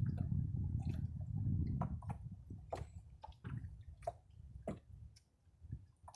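Small water sounds around a canoe: scattered drips and light lapping ticks, with a low rumble in the first two seconds that then fades.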